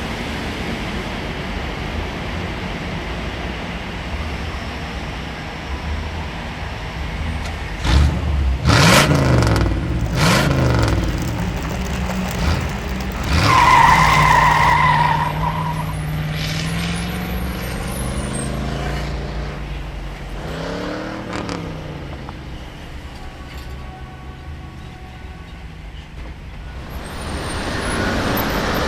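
Vehicle engine sounds: a steady low rumble, a run of knocks and clatter about eight to eleven seconds in, a short steady high tone near fourteen seconds, then an engine rising and falling in pitch before a swelling rush of noise near the end.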